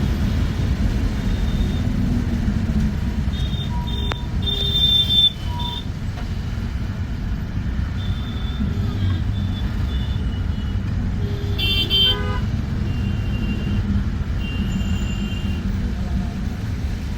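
Steady engine and road rumble heard from inside a moving bus, with vehicle horns honking in the traffic outside: a horn blast around four to five seconds in and another short one at about twelve seconds, with fainter toots between.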